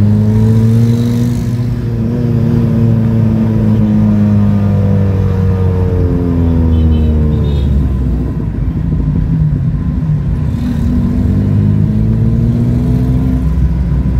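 Nissan car engine under way, heard from inside the cabin, with a manual gearbox. The engine note climbs, eases off in the middle, climbs again and drops near the end as the car accelerates and lifts off in traffic.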